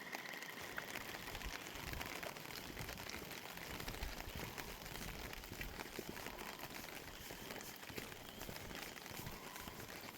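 Rain pattering steadily in many fine, dense drops.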